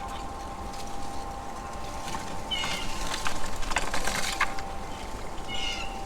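Outdoor feeder ambience: two short, harsh calls, likely birds, about three seconds apart, with a quick run of clicks and taps between them, over a steady faint ringing tone.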